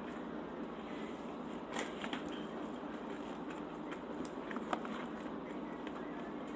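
A person eating soft food, with a few short mouth or chewing clicks over a steady background hiss.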